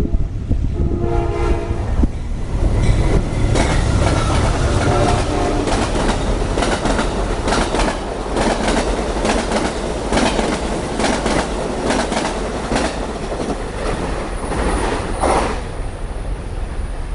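Train horn sounding a chord in the first couple of seconds, then a train passing close by with a heavy rumble and a rapid run of wheel clicks over the rail joints, easing off near the end.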